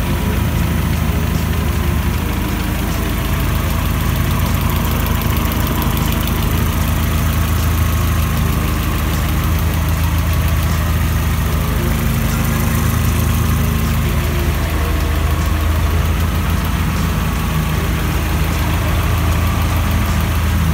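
Mazda 323 Lantis petrol engine idling steadily, heard from the open engine bay.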